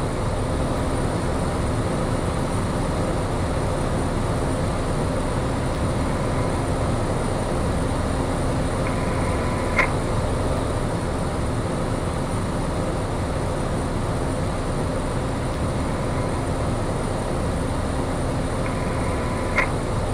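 Steady drone of a Piper light aircraft's piston engine and propeller, heard from inside the cockpit in climb, with two brief high blips, one about halfway and one near the end.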